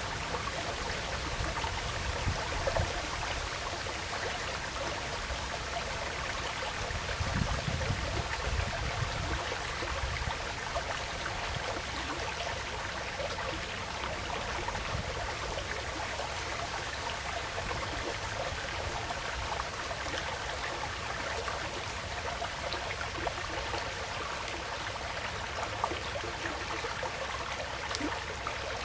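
Woodland stream flowing and trickling steadily over stones, with a brief low rumble swelling and fading about eight seconds in.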